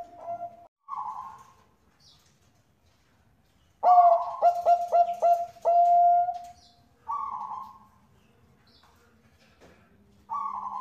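Zebra dove of the Bangkok song strain (perkutut bangkok) singing. About four seconds in comes a song phrase of quick staccato coos that runs into one long held note. Single softer coo notes come about a second in, around seven seconds and near the end.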